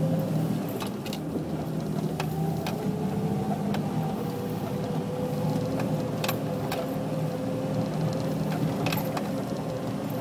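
Toyota FJ40 Land Cruiser's straight-six petrol engine running steadily at low speed, heard from inside the cab, with scattered clicks and rattles from the body over the rough dirt track.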